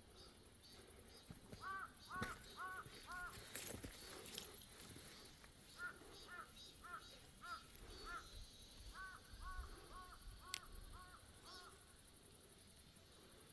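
A crow cawing in three runs of four to seven short calls, about two a second.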